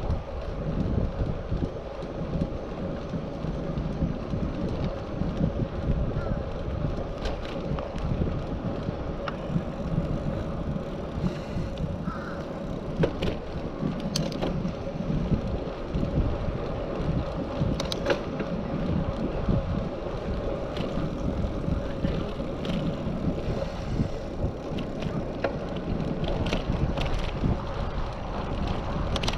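Wind rushing over the action camera's microphone while a Specialized Sirrus bicycle is ridden, with low rumble and scattered small clicks and rattles from the bike. A faint steady tone runs underneath.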